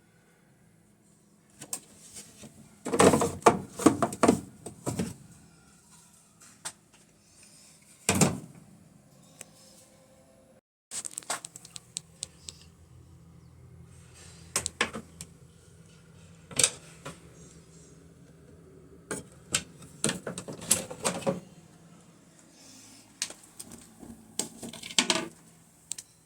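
Hard plastic clicks and knocks in irregular bursts, as parts of a washing machine's control panel are handled, with a faint steady hum underneath.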